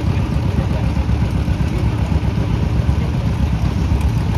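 Antique tractor engine running steadily, a continuous low rumble.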